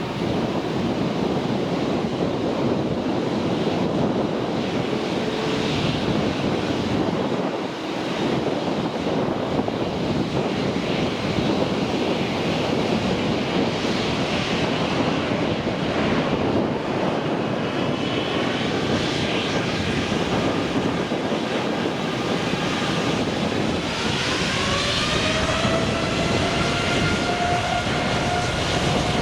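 Jet airliner engines running loud and steady. A whine comes in past the middle, rises in pitch about three-quarters of the way through and then holds.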